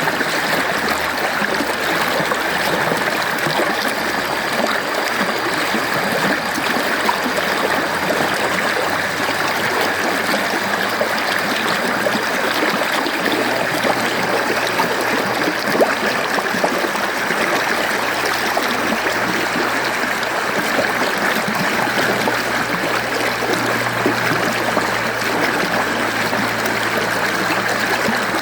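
Mountain stream flowing over rocks: a steady rush of water, even and unchanging in level.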